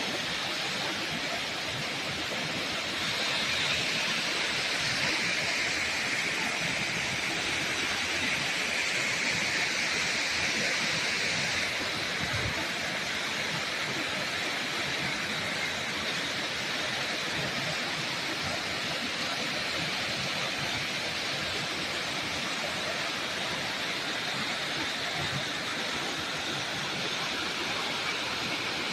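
Waterfall: a steady rush of falling water, a little louder for the first several seconds.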